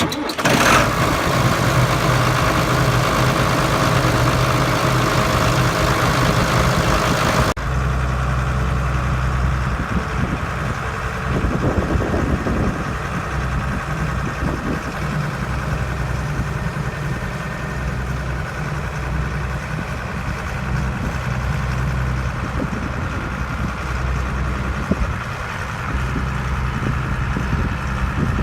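Diesel engine of a 2003 AGCO Challenger MT635 tractor running steadily. About seven and a half seconds in the sound changes abruptly, losing its hiss and becoming deeper.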